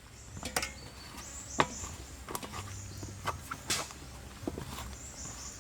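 Scattered light clicks and knocks of food being handled, irregular and unevenly spaced, over a faint steady high insect trill.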